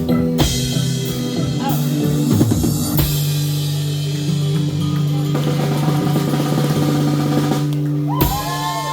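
Live band playing an instrumental ending: a long held chord with drum hits and cymbal crashes about three seconds in and near the end, closing out a song.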